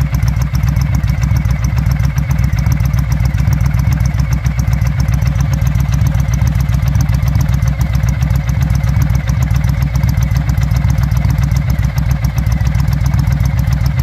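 Victory Vegas motorcycle's Freedom V-twin idling steadily through aftermarket slip-on exhaust mufflers, a low, even pulsing exhaust note.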